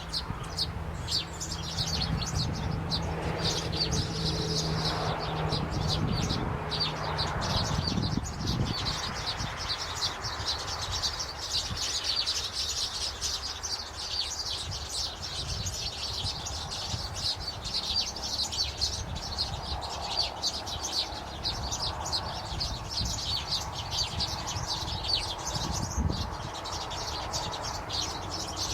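Many small birds chirping continuously in quick, high, overlapping notes. A low steady hum runs under them for the first seven seconds or so, and there are a couple of dull low thumps, one about eight seconds in and one near the end.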